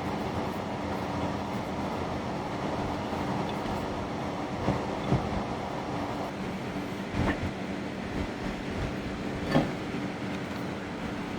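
A steady mechanical hum with a low droning tone, like a kitchen appliance or fan running. A few light knocks sound over it around the middle.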